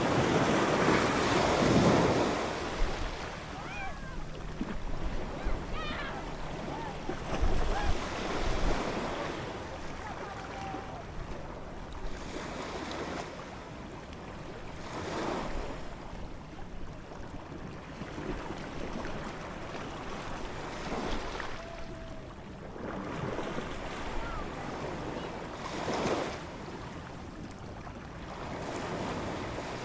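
Ocean waves breaking and washing in, with a steady surf wash and swells that rise and fall every several seconds, the biggest about a second in.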